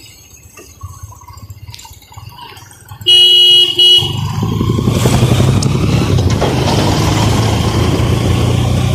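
A vehicle horn honks loudly about three seconds in, two short blasts close together. A motor vehicle's engine then runs loudly and steadily.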